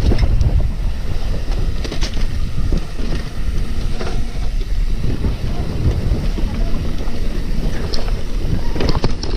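Wind buffeting the microphone of a camera on a moving bike during a trail ride, a loud steady rumble, with a few scattered sharp knocks and rattles.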